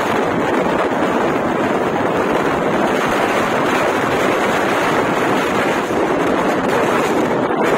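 Steady loud rushing of a passenger express train running at speed, with wind blasting the microphone held out from the side of the coach.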